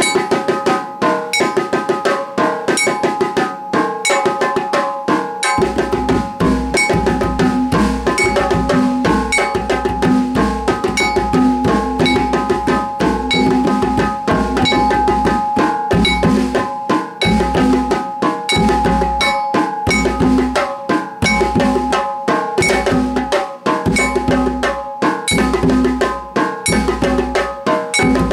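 A live instrumental jam: steady rhythmic percussion with sustained held tones over it, and a deep bass part that joins about five seconds in and pulses with the beat.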